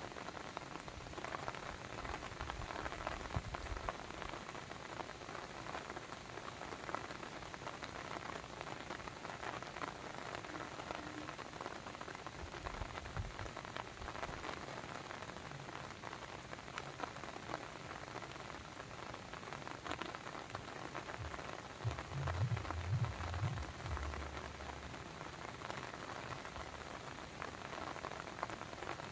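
Steady rain falling, a dense hiss of many small drops striking a surface. A brief low rumble comes through about three-quarters of the way in.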